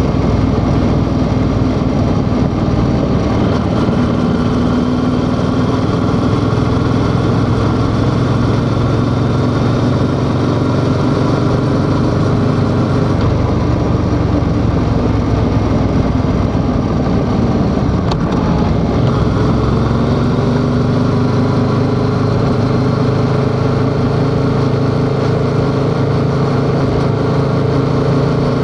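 Yamaha XSR700's parallel-twin engine running under way at a steady cruise, its note drifting slowly with the throttle. About two-thirds of the way in the note falls and then climbs again, as with a gearchange or easing off and pulling away.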